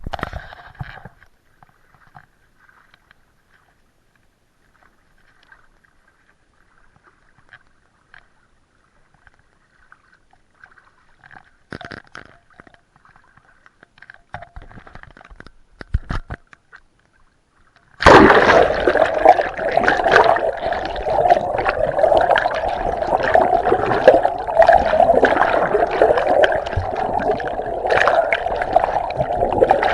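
Sea water sloshing and gurgling, loud and close, starting suddenly about two-thirds of the way in. Before it there are only faint sounds and a few soft knocks.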